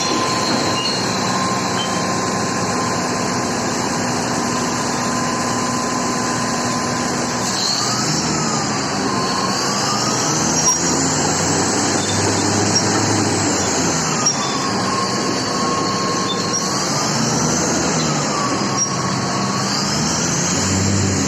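Komatsu D375A crawler bulldozer running, with a loud steady machine noise throughout. From about a third of the way in, a high metallic squeal rises and falls in pitch over and over, every couple of seconds.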